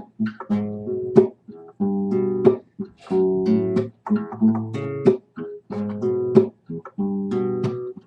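Acoustic guitar strummed in a steady rhythm, chords sounding in short phrases with brief stops between them: the instrumental intro of a song.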